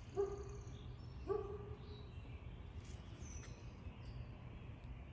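Small birds chirping faintly over a steady low hum. Two short, pitched calls sound about a second apart near the start.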